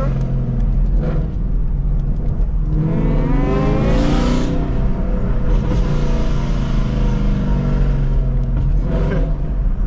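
Chevrolet Camaro SS V8 engine running under way at low speed, heard from inside the cabin. Its note rises from about three seconds in and falls back a couple of seconds later as the throttle is opened and eased off.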